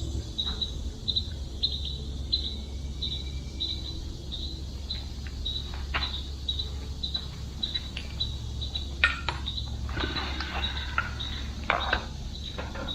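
Crickets chirping in a steady, even rhythm of about two to three high chirps a second, over a constant low hum, with a few faint clicks and rustles scattered through.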